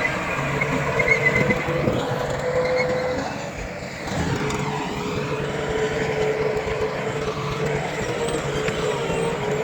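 Diesel engines of heavy earthmoving machinery running steadily, with a steady whine, briefly quieter about four seconds in.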